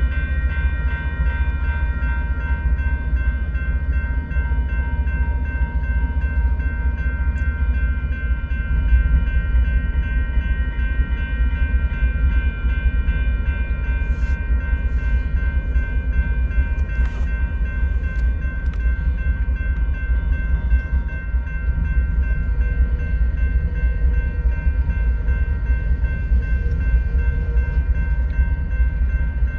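Freight train rolling slowly with a steady heavy rumble, a set of steady high tones over it, and a few sharp clicks around the middle.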